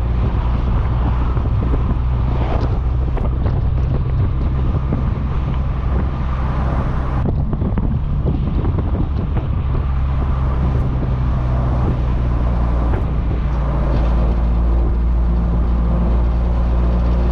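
Motorcycle engine running at a fairly steady speed while riding, with wind rushing over the camera's microphone.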